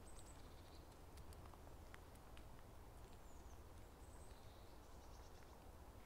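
Near silence of a snowy winter forest with the footsteps stopped. A few faint, high bird calls come about half a second in, a falling one about three and a half seconds in, and another about four seconds in, over a faint low background rumble.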